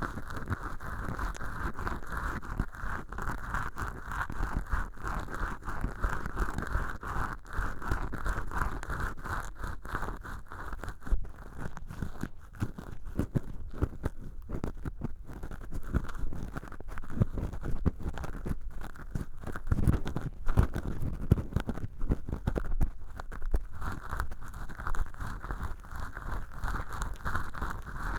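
Cotton swab rubbing and scraping inside an ear hole made of acrylic dish-scrubbing sponge: a dense, crackly scratching rustle that goes on without a break.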